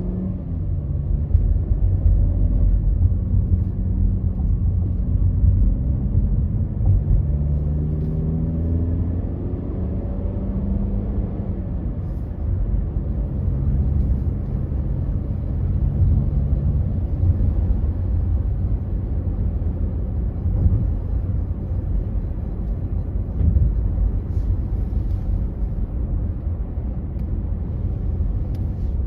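A car driving, with a steady low rumble of engine and road noise. During the first ten seconds or so the engine note rises in pitch as the car speeds up, then it settles into an even drone.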